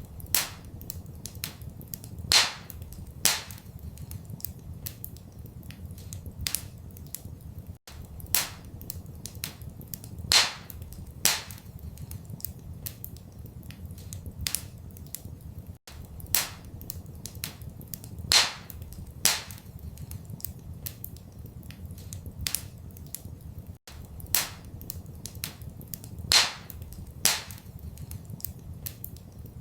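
Wood fire crackling in a fireplace, with frequent small crackles, a few louder sharp pops and a steady low rumble underneath. The same eight-second stretch of fire repeats as a loop, with a brief dropout at each seam.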